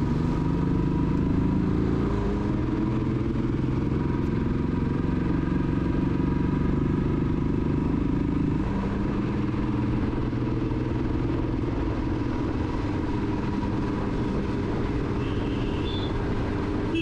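Motorcycle engine running steadily under way on a climbing road, over rumbling road and wind noise. The engine note shifts about halfway through.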